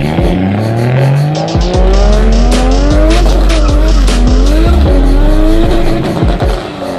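Drift car engine revving hard with tyres squealing. The engine pitch climbs steadily over the first two seconds, then rises and falls as the throttle is worked through the slide.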